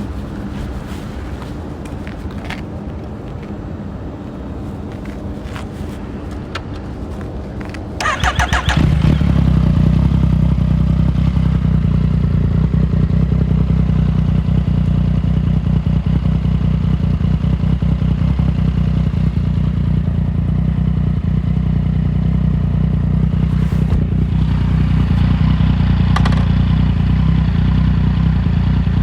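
Yamaha MT-09's 847 cc inline-three with an Arrow full-system exhaust, cranked on the starter about eight seconds in and catching at once, then idling steadily and loud. Before the start there is a quieter low rumble with a few clicks.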